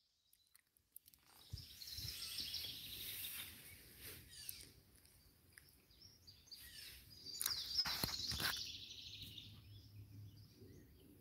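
Wild birds singing and calling in woodland, in two bursts of quick, high, falling notes, about two seconds in and again from about seven to nine seconds. A couple of sharp clicks come in the middle of the second burst.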